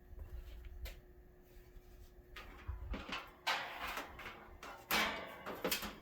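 Handling noise from the unpowered box fan being moved and turned: low rumbling with a series of knocks and scrapes, the loudest about three and a half seconds in, around five seconds and just before the end.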